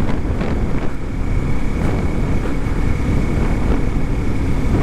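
Motorcycle running at riding speed, with wind rushing over the microphone and a faint steady high whine.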